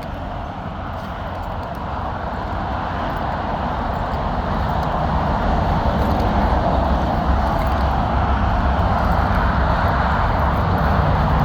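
Steady vehicle engine and road noise, growing gradually louder, with a low engine hum coming up near the end.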